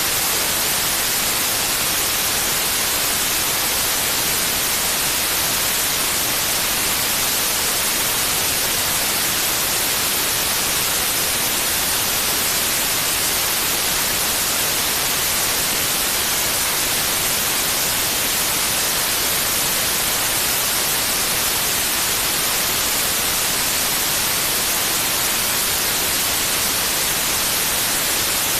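Steady white noise: an even, unchanging hiss, brightest in the high range, played as a sleep aid for a baby.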